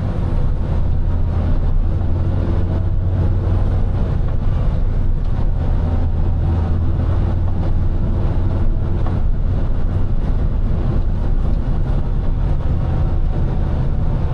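A big wheel loader's diesel engine running steadily under load as the loader pushes snow, a constant low drone.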